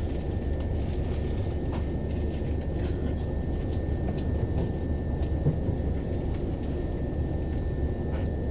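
Factory machinery ambience: a steady low rumble with a thin constant high whine and faint scattered light clicks.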